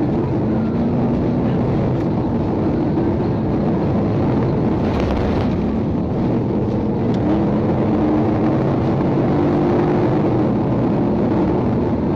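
Police patrol car's engine and road noise, running steadily at speed during a vehicle pursuit, with its engine note wavering slightly.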